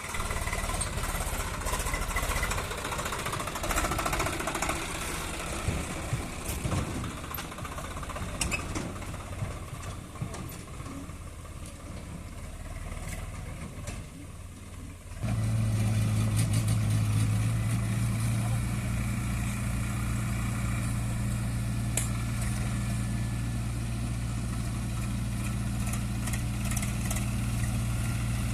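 Diesel machinery engines running, mixed with outdoor noise and some voices in the first half. About fifteen seconds in, a louder diesel engine running steadily close by suddenly takes over and holds an even note.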